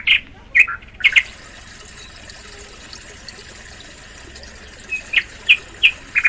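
Small songbird chirping: a quick run of short, sharp chirps at the start, a pause, then another run of about five near the end, over a steady hiss.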